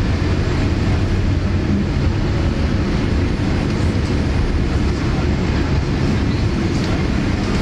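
Steady low rumble of engine and airflow noise inside the cabin of a Boeing 787 Dreamliner airliner.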